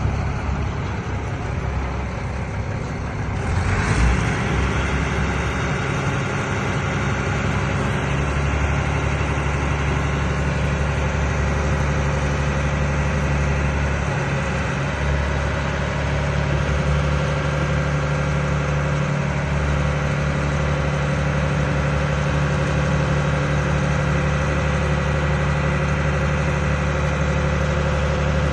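Laverda 3750 combine harvester's diesel engine running steadily at idle, with a knock about four seconds in.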